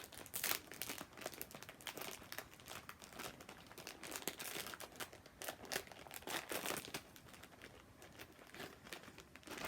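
Plastic snack wrapper on a pack of wafer cookies crinkling and rustling as it is handled by hand, in irregular clusters of crackles.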